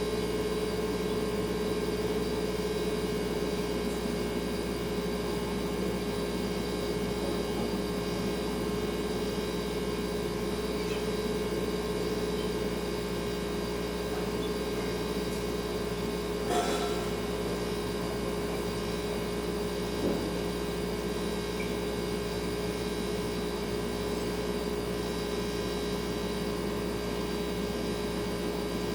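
Refrigerator humming steadily, its compressor running with a constant tone over a soft hiss. A brief click comes a little past halfway, and a fainter one follows a few seconds later.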